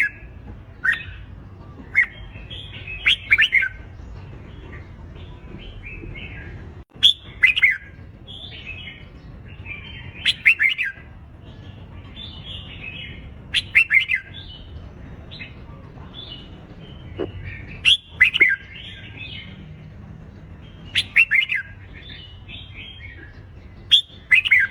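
Red-whiskered bulbuls singing competitive song: loud, quick warbled phrases every few seconds over a softer, continuous chatter of other bulbuls.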